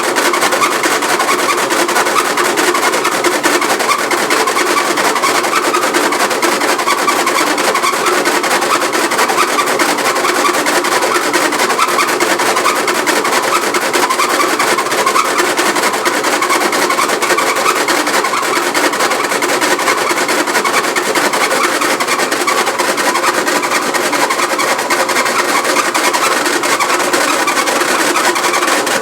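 Frigidaire washing machine running with a loud, steady mechanical noise and a fine rattle throughout. It is the excessive noise and vibration that the owner complains of.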